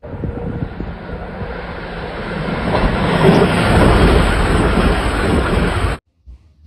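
Blue express passenger train passing through a station on electrified track, a rushing rail noise that builds as it comes closer and passes. The sound cuts off abruptly near the end.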